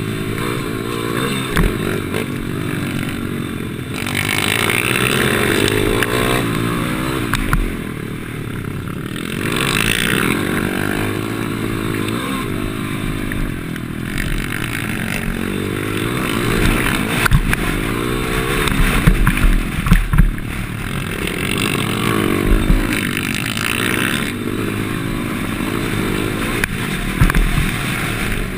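Pit bike's small single-cylinder four-stroke engine revving hard up and down as it is ridden around a track, its pitch repeatedly rising and falling through the gears, with a run of sharp knocks and thumps about two-thirds of the way through.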